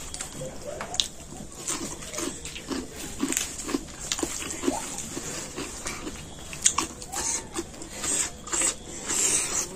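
Close-up eating sounds of a man eating curry with his hands from a plate of raw cabbage and cucumber: wet chewing and lip smacking with many crisp clicks and crunches, louder near the end.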